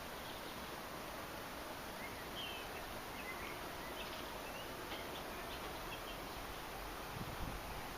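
Small birds chirping faintly and briefly here and there over a steady outdoor background hiss, with a brief low thump near the end.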